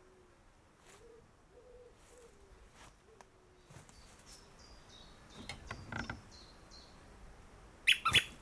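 Faint bird calls: soft low repeated notes in the first few seconds, then short high chirps. Near the end come a few sharp knocks close together.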